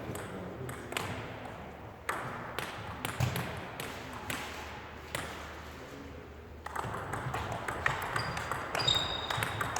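Table tennis ball clicking off bats and the table: a few separate hits at first, then a quick run of hits in a rally during the second half. A few short high squeaks come near the end.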